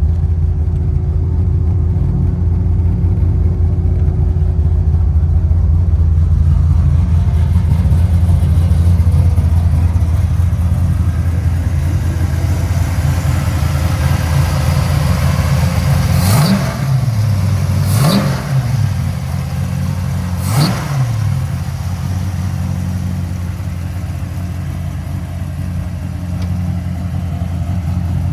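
540-cubic-inch big-block V8 in a 1969 Chevelle drag car idling with a deep steady rumble, blipped three times in quick succession about two-thirds of the way through, each rev rising and dropping straight back.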